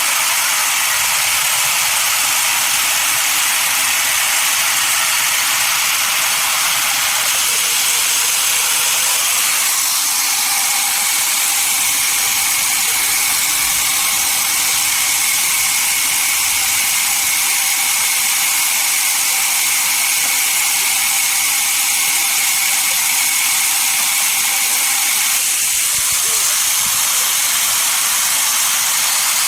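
Sawmill saw running through a log: a loud, steady high-pitched hiss with faint whining tones that shift slightly about seven, ten and twenty-five seconds in.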